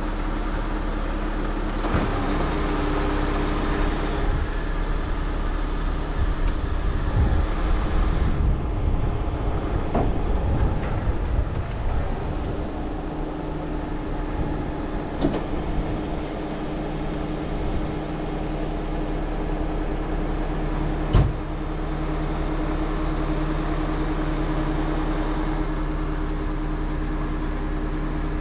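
Heavy truck diesel engine running steadily, with a few sharp metallic clanks; the loudest comes about three-quarters of the way through.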